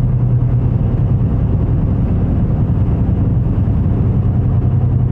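Route bus running on the road, its engine giving a steady low drone with road noise, heard from inside the bus.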